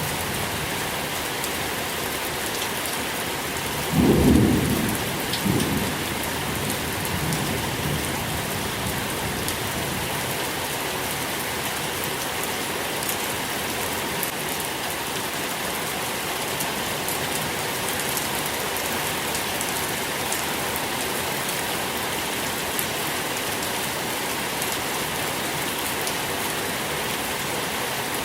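Steady rain falling, with a low roll of thunder about four seconds in. A second, weaker rumble follows a second and a half later and dies away over a few seconds.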